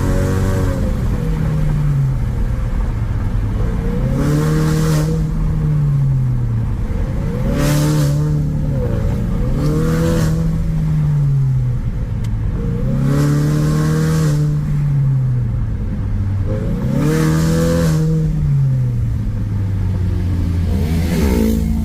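Ford Mustang engine revved repeatedly through an aftermarket Euro Arts stainless full exhaust with twin-valve mufflers. About six blips rise and fall back to a steady idle, roughly every three seconds.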